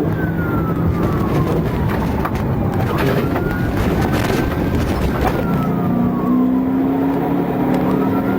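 Police siren on a slow wail, its pitch rising, holding and falling about every five seconds, over loud, steady vehicle road and engine noise.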